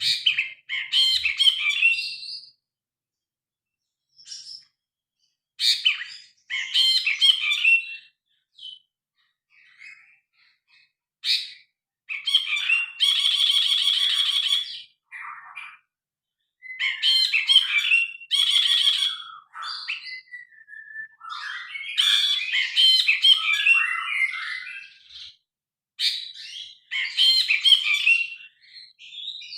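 Brinji kelabu (cinereous bulbul) singing loudly: repeated short bursts of varied, chattering whistled notes with brief pauses between. Around the middle there is one longer rapid trill, and a little later a drawn-out gliding whistle.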